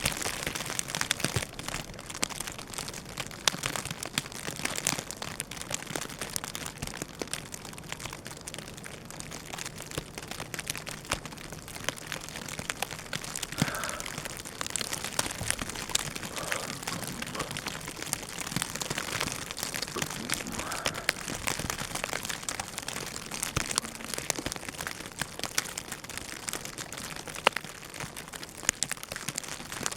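Blowing snow pattering against the microphone in a blizzard: a steady crackle of many small ticks over a hiss.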